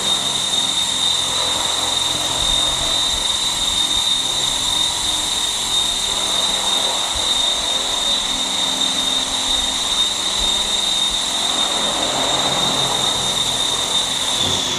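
Align T-Rex 600 ESP electric RC helicopter hovering: a steady high motor whine over the rush of the rotor blades, held level, with the whine falling away right at the very end.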